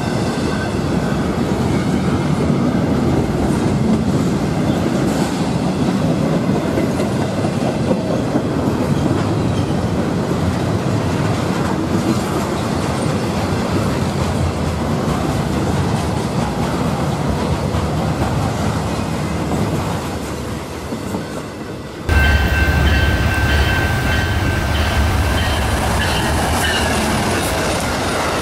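Intermodal freight train's cars rolling steadily past, a dense rumble of wheels on rail. About 22 seconds in it cuts to a louder Amtrak passenger train led by a GE P42 Genesis diesel locomotive passing at speed, with a deep engine rumble and a few steady high-pitched tones over it.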